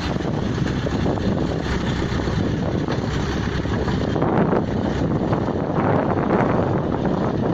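Pneumatic drilling rig running under power: a loud, steady mechanical din with no let-up.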